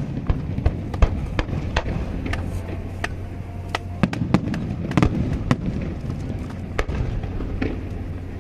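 Aerial fireworks bursting in rapid, irregular succession: many sharp bangs and crackles, with a couple of heavier booms, over a steady low rumble.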